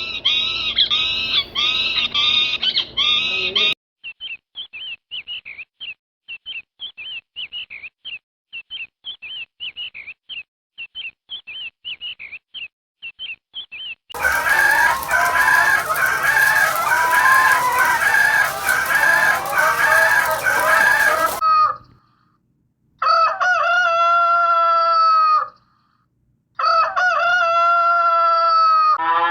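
A run of animal calls: repeated pitched calls at first, then fast high chirping for about ten seconds, a dense loud clamour, and near the end two long crows of a rooster, each about two and a half seconds.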